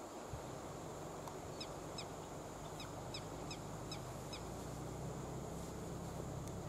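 A bird calling in a quick series of short, falling notes, about three a second, over a steady high-pitched drone. A low hum builds and grows louder near the end.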